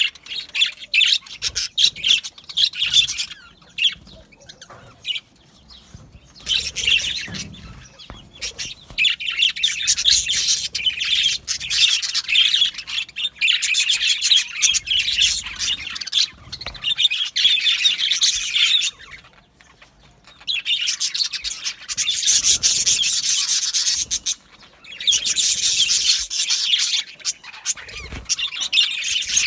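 Budgerigars chirping and chattering in fast, high-pitched runs. Scattered chirps at first build into long continuous chatter, broken by two short pauses in the second half.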